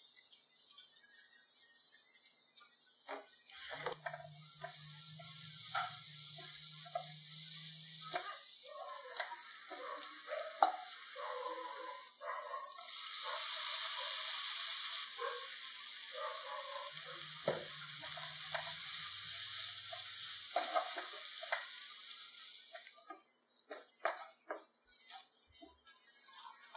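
Onions and ground spices frying in oil in a nonstick pan, a spatula stirring and scraping through them over a steady sizzle. The sizzle swells loudest for a couple of seconds about halfway through as chopped tomato goes into the hot pan, then dies down near the end, leaving a few light clicks.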